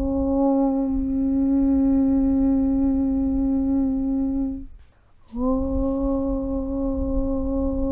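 A voice chanting a long, steady 'Aum' on one low pitch. It breaks off for about half a second near the middle, then a new 'Aum' starts with a slight rise into the same pitch.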